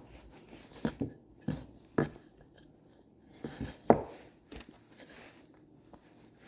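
A run of short knocks and clunks of wooden parts and tools being handled and set down on a workbench, about seven over the first five seconds, the loudest a little under four seconds in.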